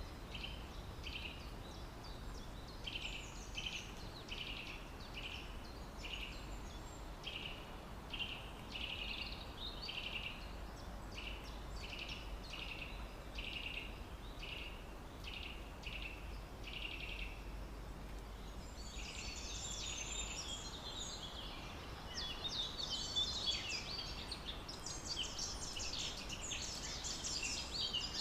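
Birds chirping: a single call repeated about once a second, then from about two-thirds of the way through a busier twittering of several birds.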